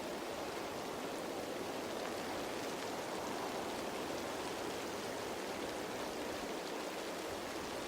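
Steady rain falling on leaves: a continuous even patter with faint scattered drop ticks.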